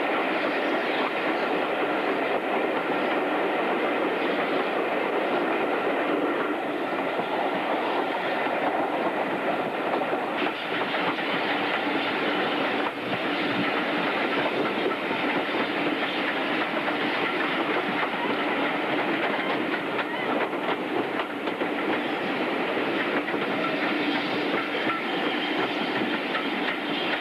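Train running along the line, its wheels clattering steadily over the rail joints.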